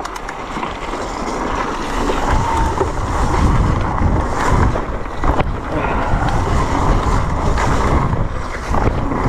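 Mountain bike riding down a wet trail: wind buffeting the microphone over tyre noise and the rattle and knocks of the bike on rough ground, getting louder after about two seconds.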